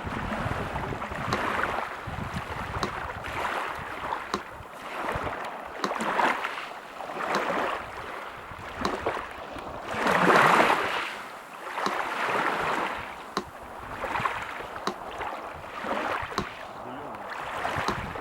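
Sea surf washing in repeated swells, the loudest about halfway through, with a metronome ticking steadily and evenly over it.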